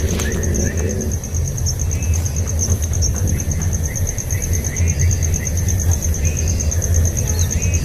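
Field ambience: an insect trills steadily in a high, rapid pulse while small birds give short chirps now and then, all over a loud low rumble.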